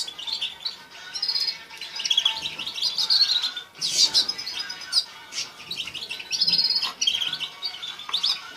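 Several caged songbirds chirping and twittering, with quick high chirps and short trills overlapping one another.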